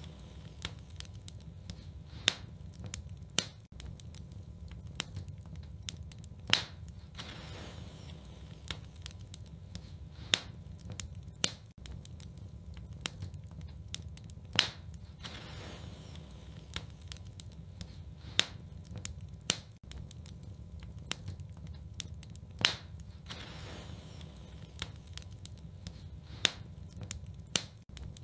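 Fireplace fire crackling, with sharp pops every few seconds over a steady low rumble and soft hissing.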